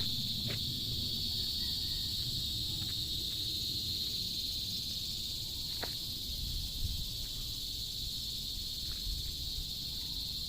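A steady chorus of chirping insects, a continuous high-pitched trill that never lets up, over a low rumble. A couple of faint clicks come through, one about half a second in and one near six seconds.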